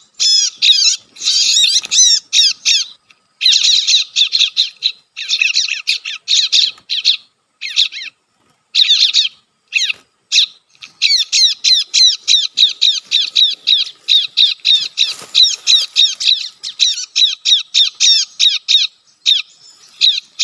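A recorded bar-winged prinia (ciblek) lure call, the 'kejepit' trapped-bird call, played through a speaker. It comes as loud runs of rapid, high, sharp chirps, about five or six a second, broken by short pauses.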